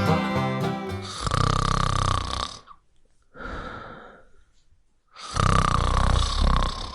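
Snoring: three long snore-like breaths, loud, then soft, then loud, after a banjo tune stops about a second in.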